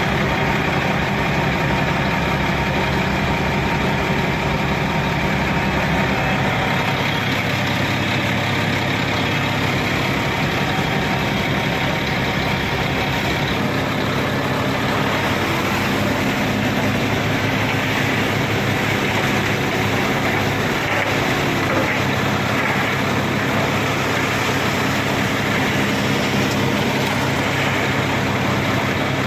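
Shantui SD16 bulldozer's diesel engine running steadily. Its low engine note shifts slightly twice in the first half.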